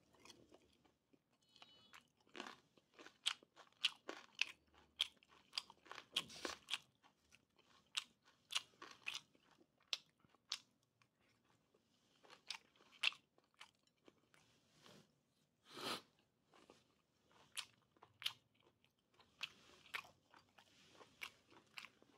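Close-up chewing of boiled pork with crunchy cartilage (pig snout, tail or trotter): irregular crunches and clicks, at times several a second.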